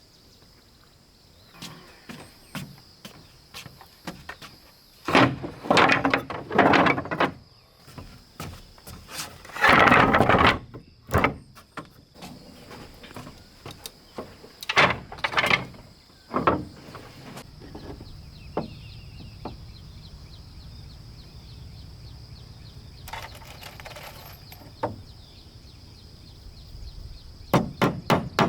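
Woodworking sounds: irregular scraping and knocking of timber being handled and worked, over a steady high insect drone, with sharp blows like hammering or chopping starting near the end.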